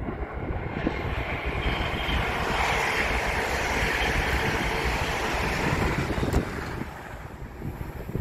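An ICE 3 high-speed electric train passing at speed: a rushing noise of wheels and air that swells, peaks for a few seconds and fades away. Wind buffets the microphone throughout.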